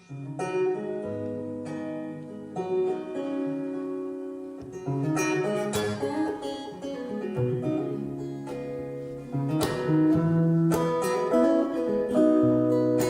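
Live band playing the instrumental intro of a blues song, led by picked and strummed acoustic guitars; the sound grows louder and fuller about ten seconds in.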